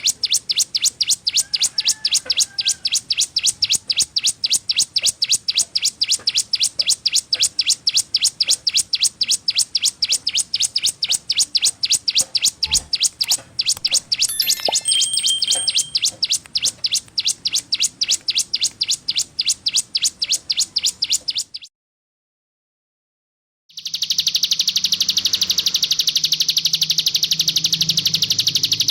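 Ciblek gunung (mountain prinia) song: a sharp high note repeated rapidly and evenly, about four times a second, for some twenty seconds. It stops, and after a short pause gives way to a dense, continuous buzzing trill.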